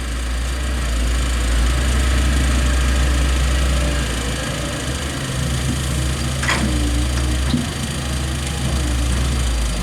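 Heavy diesel engine running steadily at a low drone, with a sharp clank about six and a half seconds in and a lighter knock about a second later.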